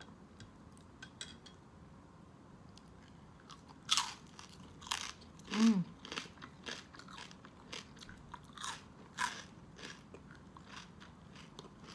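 Crisp, burnt skin of baked pork being bitten and chewed: a run of sharp, crackly crunches that starts about four seconds in and goes on for several seconds, with a short hummed "mm" among them.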